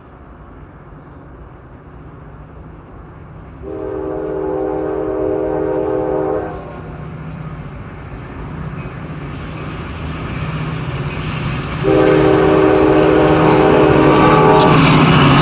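Diesel locomotives approaching, their engine rumble building steadily, sounding a several-note air horn in two long blasts about four and twelve seconds in. The second blast is louder and closer, and the lead engine is near and passing by the end.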